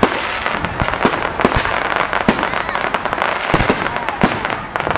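Aerial fireworks display: shells bursting in a rapid, continuous string of sharp bangs, with dense crackling between the louder reports.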